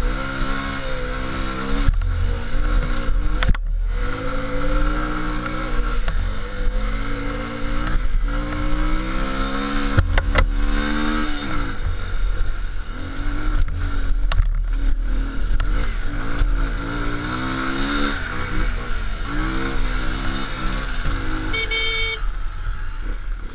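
Car engine running on the move with steady road rumble, its pitch rising and falling several times as the car speeds up and slows. There is a short high beep near the end.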